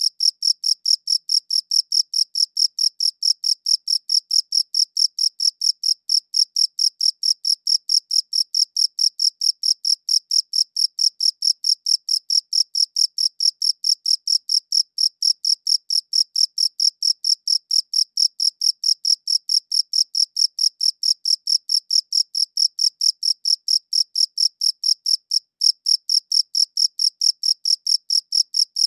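A cricket chirping steadily in rapid, evenly spaced, high-pitched chirps, with one brief break near the end.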